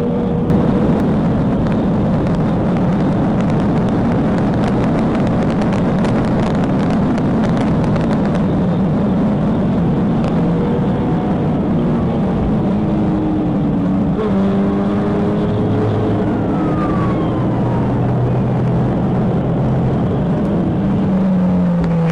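Police pursuit car driving at high speed: steady engine, tyre and wind noise, with engine tones shifting in pitch. Near the end one engine tone drops sharply in pitch, as a vehicle is passed.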